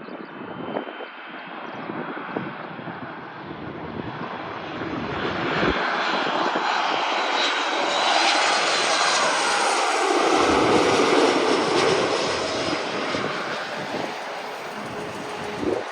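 Boeing 737 MAX 8 jetliner's CFM LEAP-1B turbofans on landing, the noise growing louder as the aircraft approaches, peaking as it passes with a falling pitch, then fading away.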